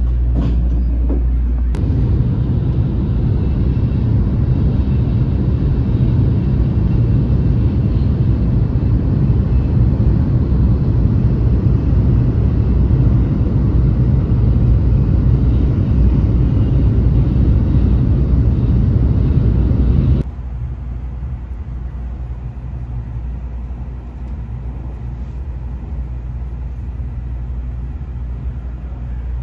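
Cabin noise inside a Shinkansen Kodama train: a steady low rumble of the train running at speed, loud from about two seconds in. It drops abruptly about twenty seconds in to a quieter, steady cabin hum.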